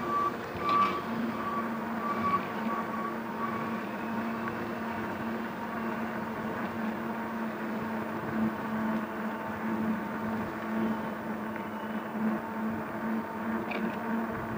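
Steady pitched hum of an Ecotric fat-tire electric bike being ridden along a city street, over a haze of traffic noise, with a few brief higher tones in the first few seconds.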